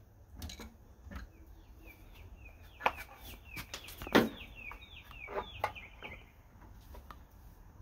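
A bird chirping in a quick run of short falling notes, about four a second, for some four seconds. A few sharp knocks sound over it, the loudest about four seconds in.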